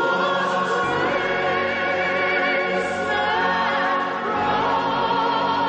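Background music: a choir singing sustained, wavering notes with vibrato.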